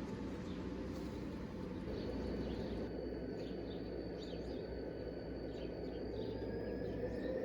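G scale model train running: a steady rumble with a faint high motor whine that climbs a little in pitch near the end.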